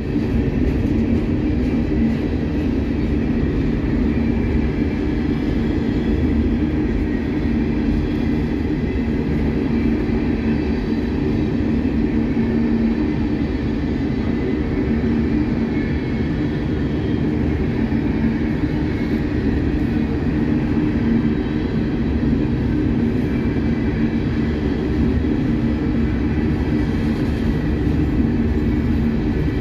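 Loaded Herzog ballast hopper cars rolling past on the rails: a steady, unbroken rumble of steel wheels on track.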